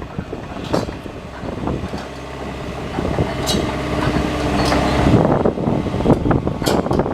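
JCB JS145LC tracked excavator working: the diesel engine runs steadily under sharp metallic clanks and squeaks. A steady whine holds from about three to five seconds in, and the clatter grows busier after that.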